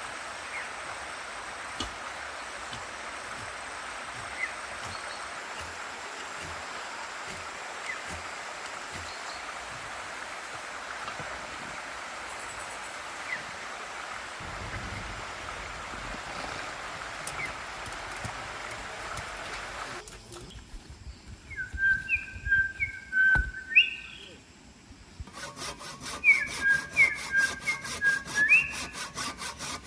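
Steady background hiss, then short high whistling notes, and near the end a saw cutting wood in quick, even strokes.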